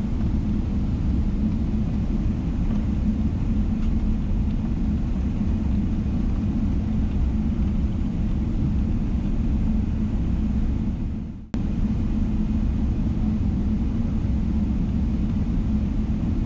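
Steady low rumble of a Boeing 777-300ER's GE90 engines and airflow heard inside the cabin. About eleven seconds in it fades out briefly and then cuts back in abruptly.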